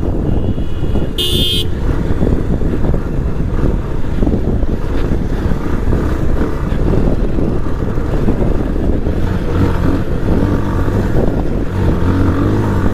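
Motorcycle engine running under way, with a short horn beep about a second in.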